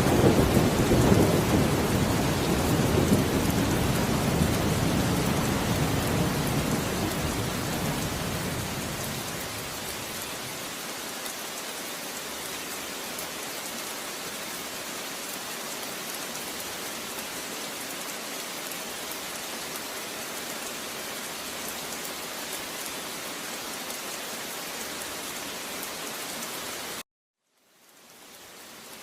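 Steady heavy rain, with a low thunder rumble that dies away over the first ten seconds. Near the end the sound cuts out abruptly for under a second, then fades back in.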